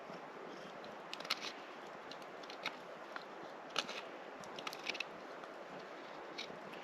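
A knife whittling a wooden spoon blank by hand: irregular crisp crunchy cuts and short scrapes as wood shavings are sliced off.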